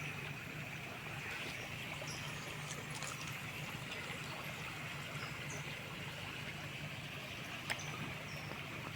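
River water running steadily, with a few short high bird chirps over it.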